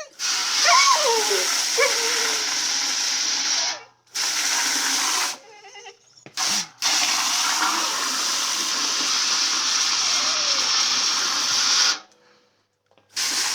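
Water spraying in a steady hiss that starts and stops abruptly, three times. A dog whines with short falling whimpers during the first spray.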